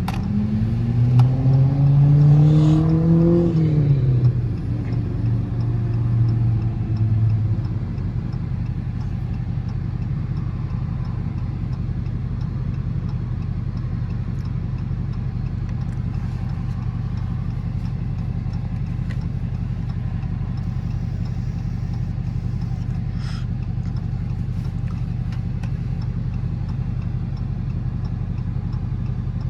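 Dodge Charger R/T's V8 engine revving up hard under acceleration for about three seconds, then the revs drop sharply as the throttle comes off or it shifts. After that the car runs on at a steady, low drone.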